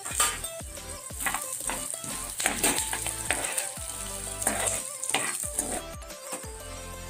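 Oil sizzling in a pan as coriander seeds, peanuts, chana dal, garlic cloves and green chillies fry in it, with a spatula stirring and scraping against the pan again and again. Background music plays under it.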